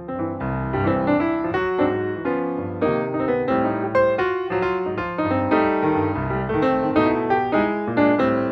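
Background piano music: a melodic piece with many quick notes at a steady level.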